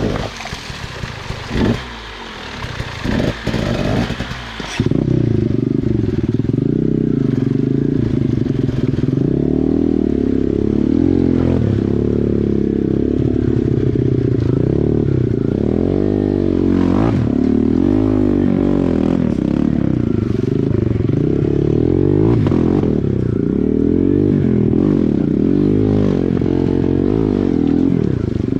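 Small dirt bike engine revving up and down again and again. About five seconds in, the sound turns abruptly muffled, with little but the low end left.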